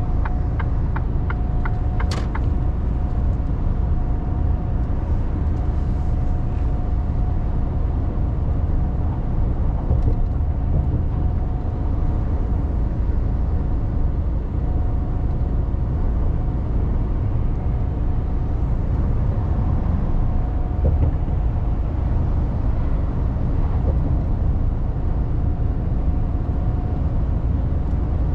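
Mercedes-Benz Actros truck being driven, heard from inside the cab: a steady low engine and road rumble with a faint constant whine. A rapid, regular ticking at the start stops about two seconds in, ending with a sharper click.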